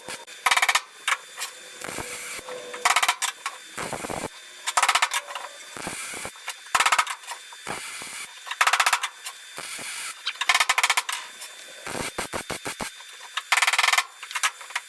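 Welder laying plug welds through drilled holes in a steel roof patch panel: a dozen or so short bursts of arc crackle with short pauses between, and a quick run of clicks near the end.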